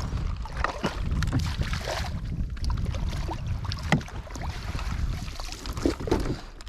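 Water splashing and sloshing in short irregular bursts over a steady low rumble of wind on the microphone, as a hooked striped bass is fought close to the boat.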